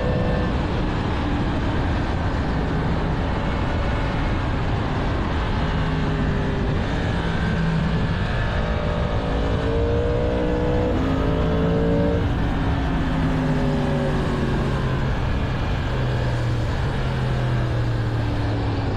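2022 Yamaha MT-10's crossplane inline-four running on its stock exhaust while being ridden, its note climbing about halfway through and then falling away, under a heavy rush of wind over the microphone.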